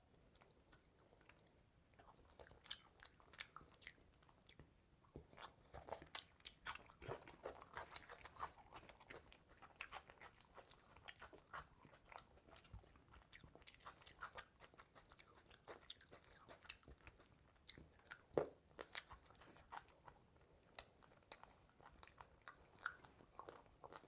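A person chewing and biting into a whole fish: a close, wet run of irregular crunches and mouth clicks, with one sharp loud crunch about eighteen seconds in.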